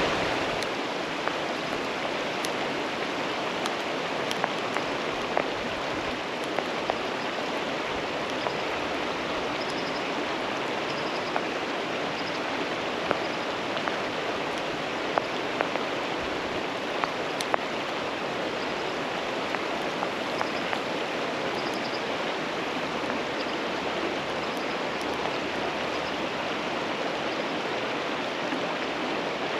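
Merced River flowing: a steady rush of running water, with small sharp splashes ticking through it now and then.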